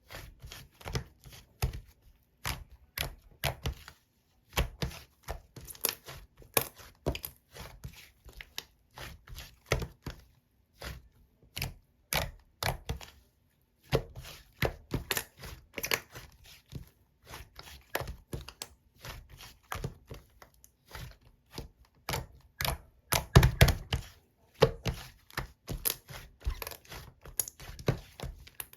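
Slime being squished and pressed by hand, making a rapid, irregular series of sticky pops and clicks, with a short pause about 13 seconds in.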